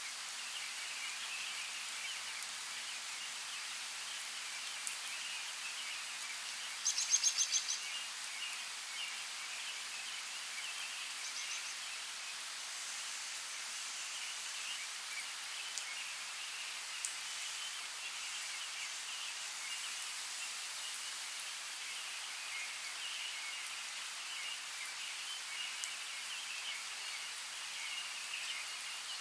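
Steady hiss of rain falling outdoors. About seven seconds in, a bird gives a quick series of high notes, louder than the rain.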